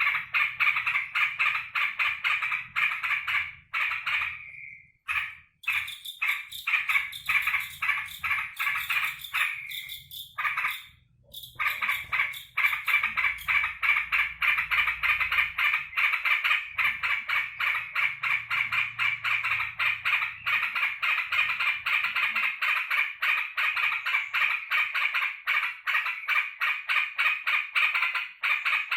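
Caged yellow-vented bulbul (trucukan) calling in a fast, continuous chatter of short repeated notes, with brief breaks about five seconds in and again around eleven seconds. The owner takes this chatter for the bird's excited greeting on his return home.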